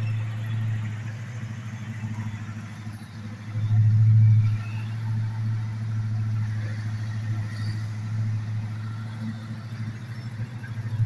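Dodge 880's V8 engine idling steadily with a low, even hum, swelling briefly about four seconds in.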